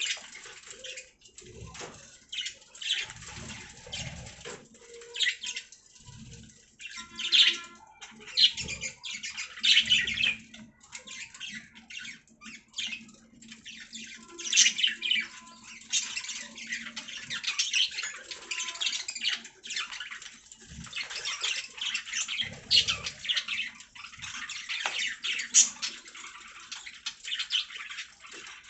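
Budgerigars chirping and chattering in a dense, continuous stream of short, high chirps and squawks, with a few soft low thumps among them.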